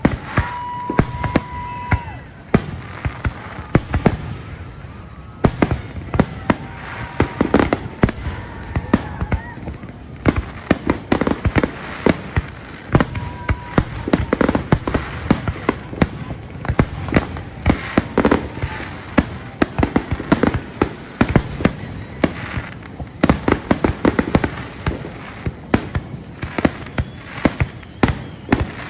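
Aerial fireworks bursting in a dense barrage, many sharp bangs and crackles a second, overlapping one another. A brief steady whistle sounds about a second in.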